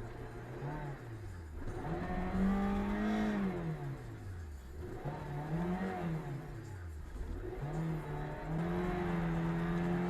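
Car engine running while driving, its pitch rising and falling several times as it speeds up and eases off, then holding steady near the end.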